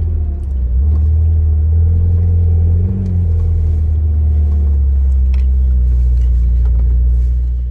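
McLaren 720S's twin-turbo V8 heard from inside the cabin: a loud, steady low drone as the car drives along.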